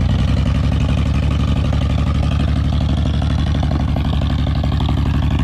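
Chevy S10 engine running steadily at a constant pitch with a rapid, even pulsing, sounding rough; it has no oil pressure and is being run to destruction.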